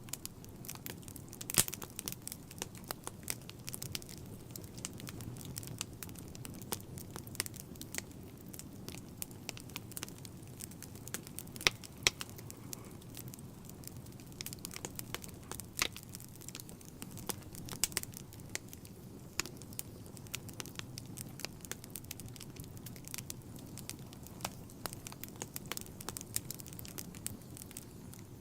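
Wood fire burning in a fireplace: steady low rush of the flames with irregular crackles and sharp pops, a few louder snaps about a second and a half in and around the middle.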